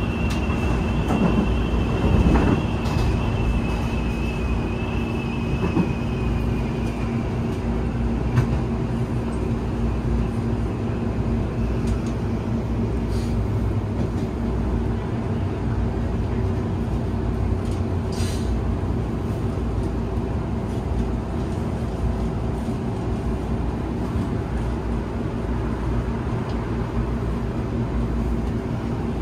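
Train in motion: steady running rumble with a low hum, and a thin high whine that holds for the first several seconds and then fades away.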